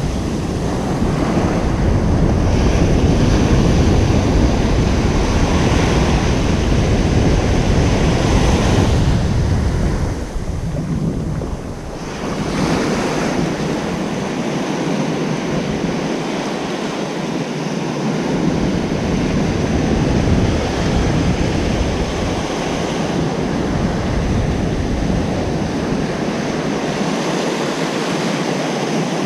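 Ocean surf washing onto a beach in a continuous, swelling rush of waves. Wind buffets the microphone with a low rumble, heaviest in the first third and coming and going after that.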